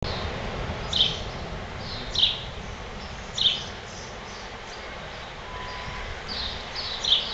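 A bird giving short, sharp chirps at uneven intervals, four of them standing out loudly, over a steady rush of background noise.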